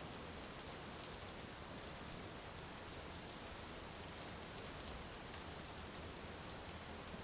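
Heavy rain falling steadily, an even hiss with faint ticks of a crackling wood fire in it.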